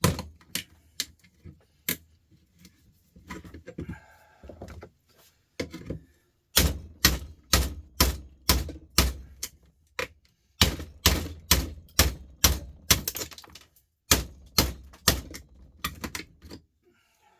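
Lump hammer striking a big cement-block chisel set against a stripped, seized screw, in steady runs of about two blows a second with short pauses between. The chisel is only bouncing off the screw.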